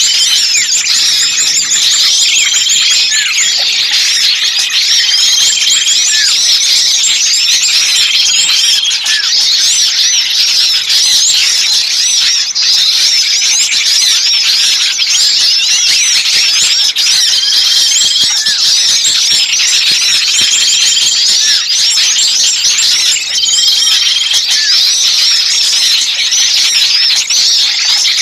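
Bird-lure recording of a crowd of small birds chirping and twittering at once, a dense, fast, high-pitched chatter with a short level trill repeating every few seconds. It is a 'kejepit' lure, the agitated calls of small birds as if one were caught, used to draw in other birds.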